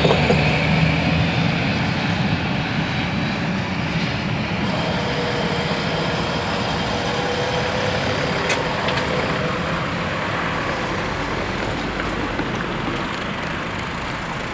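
Steady rumble of vehicle engines and traffic, fading slowly, with a single sharp click about eight seconds in.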